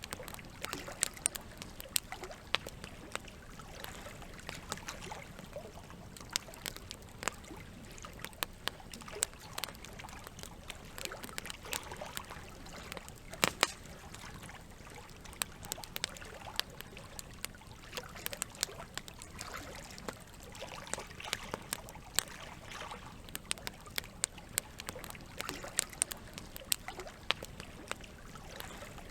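Wood campfire crackling, with many sharp pops scattered irregularly and one louder pop about halfway through, over the steady sound of running water.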